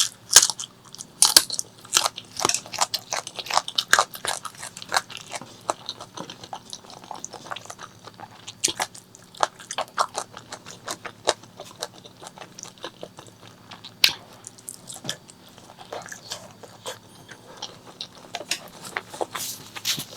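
Close-miked eating of spicy pork leg curry with rice: biting and chewing with many sharp, wet clicks and crunches, densest in the first few seconds and sparser after.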